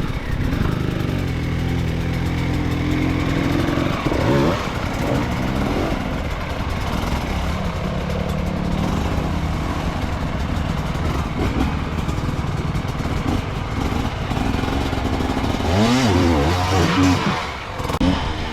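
Enduro dirt bike engine running under load on a trail, its revs rising and falling, with sharp bursts of revving about four seconds in and again near the end.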